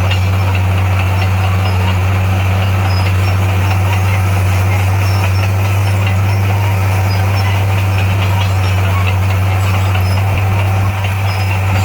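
Heavy diesel engine of earthmoving machinery running steadily at a constant speed, a deep even hum with a slight dip in loudness near the end.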